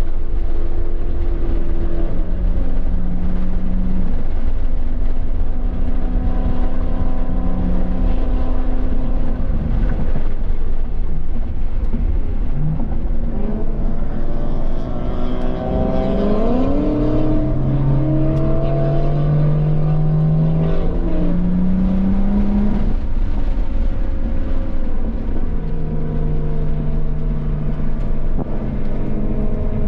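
A 2017 BMW M240i's turbocharged straight-six running at speed on a race track. Its note holds steady for the first several seconds, then rises in pitch and steps several times as the car accelerates through the gears, over a steady low road rumble.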